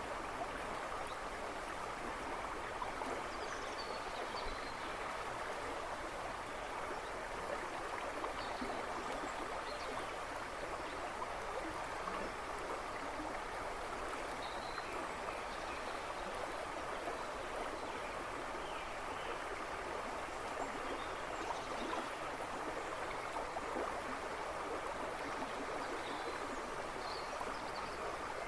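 River babbling and rushing steadily over stones, with short faint bird chirps every few seconds.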